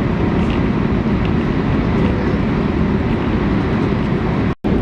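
Steady, loud low rumble of a moving vehicle, cutting out abruptly for a moment near the end.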